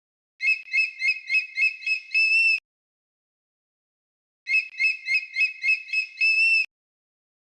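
A bird call played twice: six quick chirps followed by a held note, repeated the same way about two seconds later, with dead silence between.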